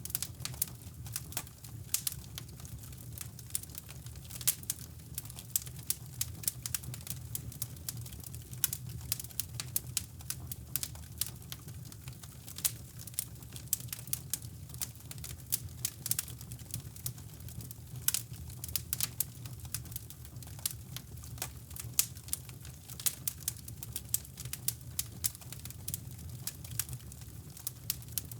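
Wood fire crackling in a fireplace, with irregular sharp pops and snaps, over a steady low rumble of brown noise.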